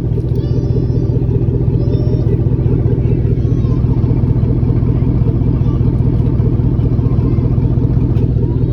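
Old Chevy mud truck's engine idling steadily and evenly; it runs smoothly, though the truck has sat unstarted for a couple of weeks.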